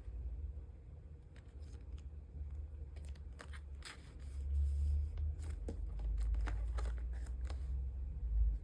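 Photocards and clear plastic sleeves being handled: crinkling and scattered light clicks, over a low rumble of handling on the desk that grows louder about halfway through.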